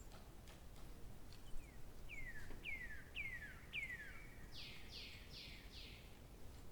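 A songbird calling: four quick falling whistled notes, then four harsher, raspier notes in a row. Faint scattered clicks and a low background hum sit underneath.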